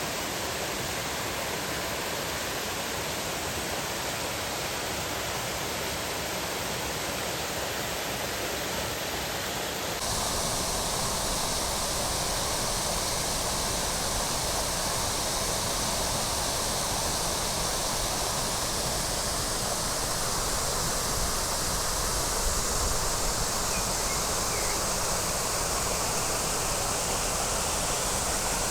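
A waterfall's steady rushing of falling water. About ten seconds in the sound shifts abruptly and gets a little louder and hissier.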